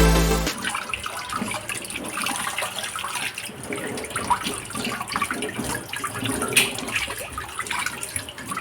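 Tap water running into a sink with irregular splashing.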